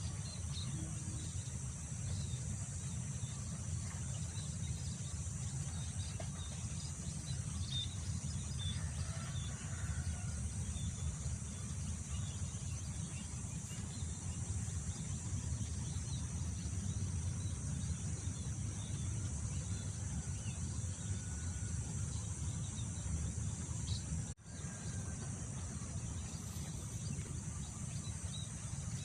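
Wind rumbling on the microphone over a steady high drone of crickets, with scattered short bird chirps. The sound drops out for a split second about 24 seconds in.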